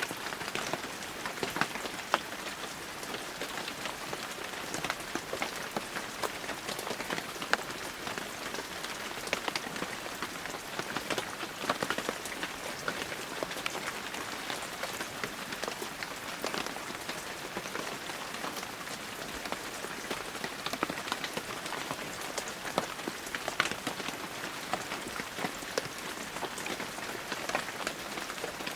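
Heavy rain falling steadily, an even hiss dotted with many sharp, individual drop impacts.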